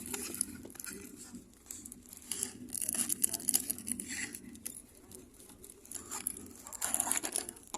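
Plastic packaging crinkling and tearing in two spells, the louder through the middle and another near the end, over a steady low hum.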